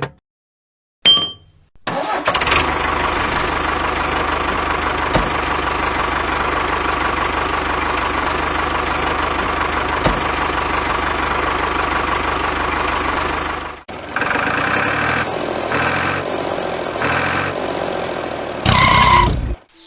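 A tractor-type engine runs steadily for about twelve seconds. After a cut, an engine sound pulses about once a second and ends in a short loud burst.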